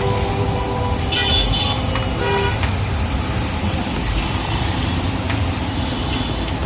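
Steady street traffic noise, with a short horn toot about a second in and a fainter one soon after.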